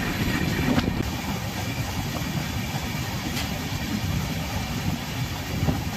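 Passenger train running along the line: a steady rumble of wheels on the rails.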